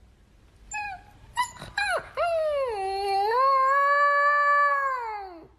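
A dog howling: a few short yips and whimpers about a second in, then one long howl that dips and rises in pitch and fades out near the end.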